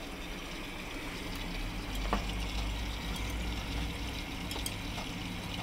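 Miele washing machine running with water flowing into it: a steady low hum and a rushing hiss, with a single short click about two seconds in.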